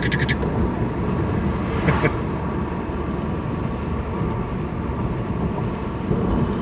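Steady engine and road rumble of a car being driven, heard from inside the cabin, with a short knock about two seconds in.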